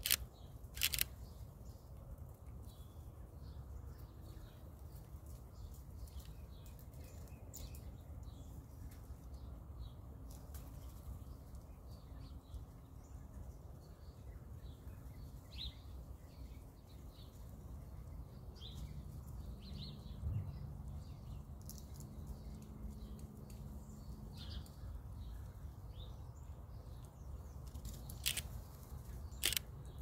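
Small birds chirping in short scattered notes over a low steady outdoor rumble, with a few sharp camera shutter clicks near the start and again near the end.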